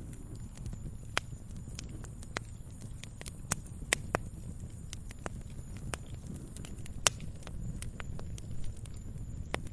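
Campfire crackling: irregular sharp pops and snaps of burning wood over a low steady rumble of the flames, a few pops much louder than the rest.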